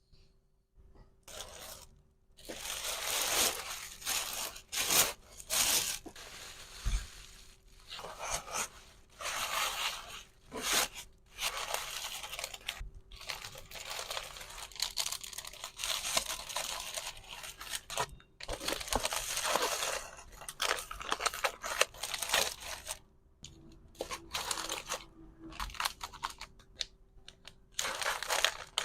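Plastic packaging rustling, crinkling and tearing in a run of irregular bursts, with sharp clicks among them.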